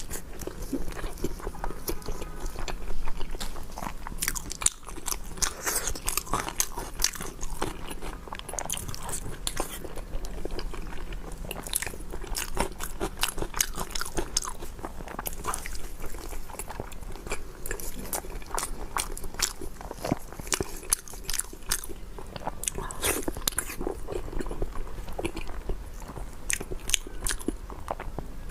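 Close-miked biting and chewing of pork skin rolls, a dense run of short, sharp mouth clicks and bites throughout.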